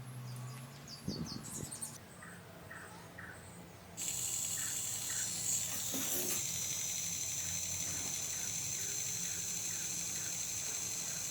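A bird chirping in short repeated calls, then about four seconds in a steady hiss starts abruptly and holds.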